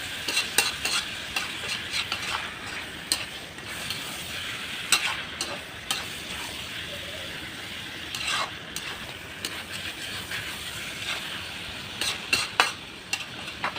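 Food frying in a pan with a steady sizzle, while a utensil stirs it, scraping and knocking against the pan in irregular strokes.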